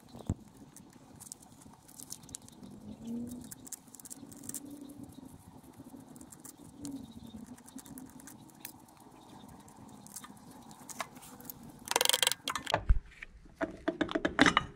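Metal engine parts and hand tools being handled: scattered light clicks and clinks, with a louder burst of rattling about twelve seconds in and another cluster of knocks near the end.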